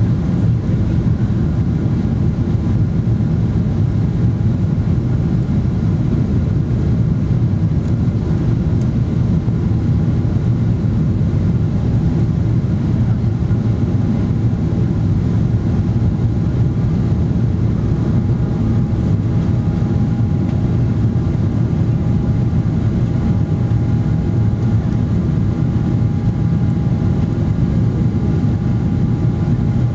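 Steady cabin noise inside a Boeing 777-300ER: a deep rumble of engine and airflow with faint, steady whining tones from its GE90 turbofans.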